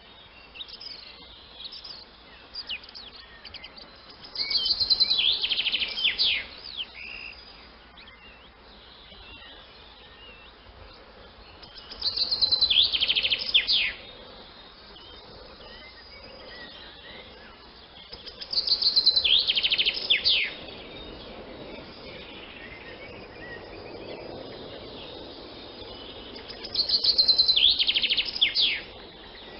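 A swallow twittering: four loud bouts of rapid high chirps, each lasting about two seconds and coming roughly every seven to eight seconds, with fainter scattered chirps in between.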